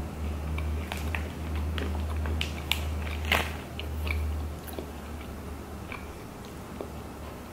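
A person chewing a bite of apple jam cookie, with scattered short crunches and mouth clicks, the sharpest about three seconds in. A steady low hum sits underneath and drops away about halfway through.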